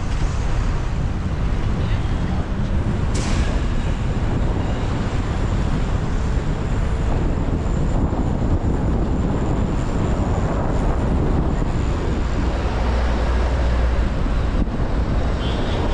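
Steady wind rush and city traffic noise on an action camera's microphone during a bicycle ride through city streets, with a sharp click about three seconds in.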